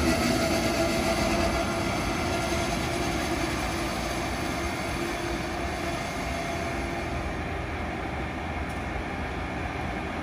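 Amtrak ACS-64 electric locomotive and its train moving slowly past, with steady wheel-and-rail noise and the locomotive's running hum. It gets gradually quieter as the train draws away and slows.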